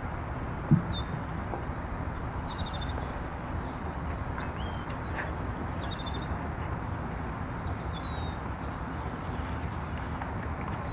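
Birds chirping and calling again and again over a steady background hiss, with one low thump less than a second in.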